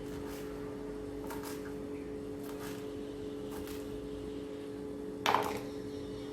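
Steady low hum with faint soft taps and rustles about once a second, and one brief louder rustle or knock about five seconds in.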